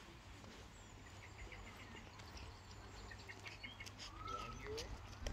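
Faint birdsong: a run of short chirps through the middle, then a couple of swooping whistled notes about four seconds in, over a low steady rumble.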